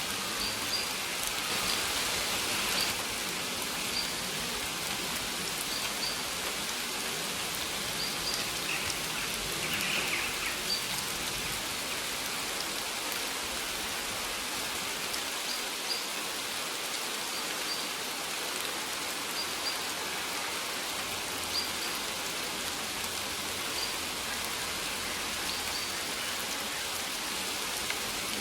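Steady rain falling, a dense even patter of drops. Short high bird chirps recur every second or two above it.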